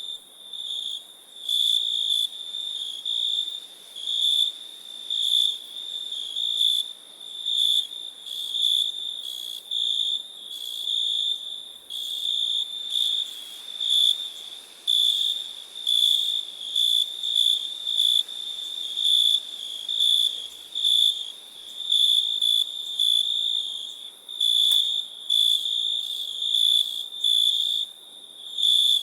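Crickets chirping: a high-pitched chirp, about one to two a second, repeating steadily over a light hiss.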